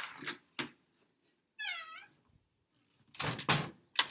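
A house cat meows once, a single short call that rises and falls in pitch, about one and a half seconds in. Short noisy bursts come just before it and again about three seconds in.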